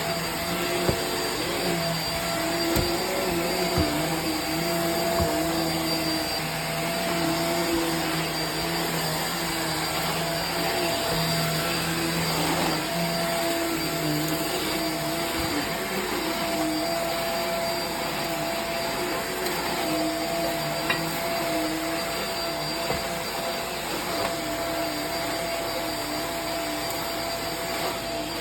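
Hoover React vacuum cleaner running steadily during floor cleanup, a whining motor tone that wavers slightly in pitch over a rushing hiss. A few sharp clicks in the first several seconds, typical of debris being sucked up.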